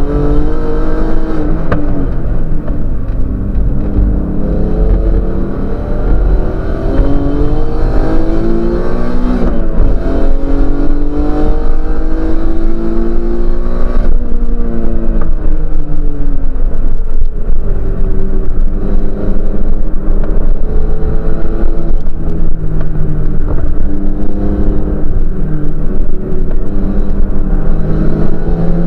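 Race car engine heard from inside the cabin under hard driving, its pitch repeatedly climbing as it revs out and then dropping on lifts and downshifts. A steady low road and wind rumble runs underneath.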